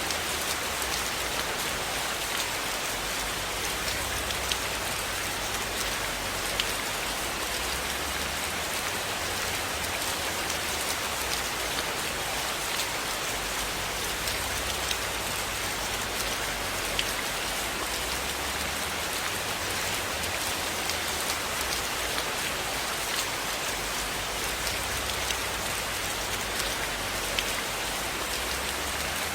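Steady rain falling on a surface, an even hiss with scattered sharp ticks throughout.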